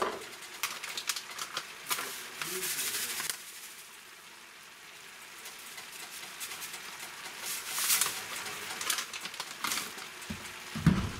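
Cabbage, potatoes and sliced sausages sizzling in a frying pan: crackles and pops that come and go, dying down for a couple of seconds about a third of the way in. There is a brief louder low sound near the end.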